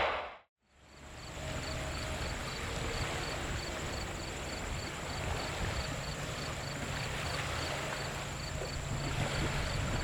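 Steady outdoor wind noise with a faint low rumble, after a brief dropout to silence right at the start; a faint high ticking repeats about three times a second throughout.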